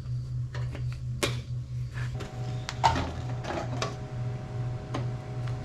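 A few sharp clicks and clatters of hard parts being handled, over a steady, pulsing low hum.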